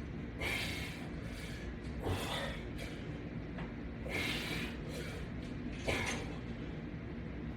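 Four soft rushing sounds about two seconds apart, in rhythm with repetitions of a resistance-band exercise.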